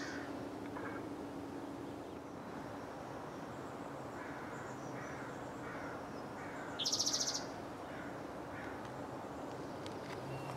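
Songbirds calling: faint short chirps repeating every second or so, and one high, buzzy trill lasting under a second about seven seconds in, the loudest sound.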